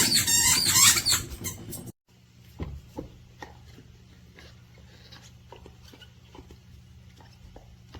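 A dog's squeaky chew toy squealing in quick wavering squeaks for about two seconds. After a sudden cut there are faint, scattered clicks of a dog chewing on the toy over a low steady hum.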